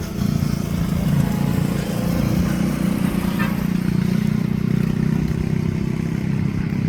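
A motor engine running steadily, a low even drone.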